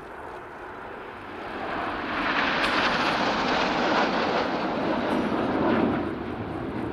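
Formation of BAE Hawk T1 jet trainers, Rolls-Royce Turbomeca Adour turbofans, flying past: a rushing jet sound that swells over the first couple of seconds, is loudest in the middle, and turns deeper near the end as the jets move away.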